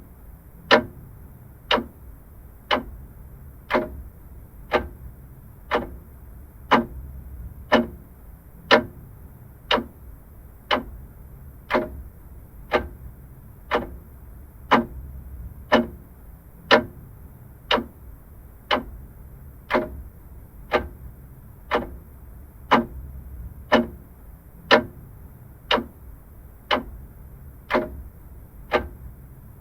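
Vintage mechanical clock ticking steadily, about one tick a second, over a low background hum.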